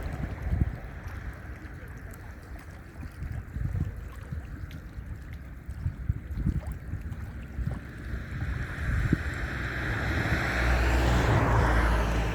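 Wind buffeting the microphone while an approaching military aircraft's engine noise swells, growing louder about two-thirds of the way through with a steady low hum and a shifting pitch near the end as it comes closer.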